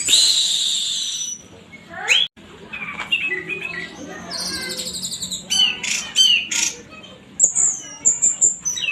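Orange-headed thrush singing a varied song: a loud harsh burst at the start, then a run of quick, changing phrases with fast trills and sharp high whistles near the end.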